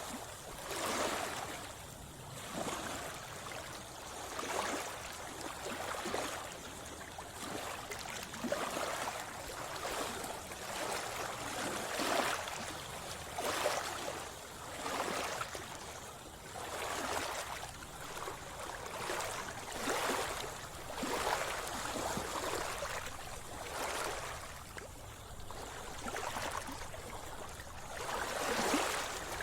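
Sea water splashing and sloshing close by, in regular surges about every second and a half.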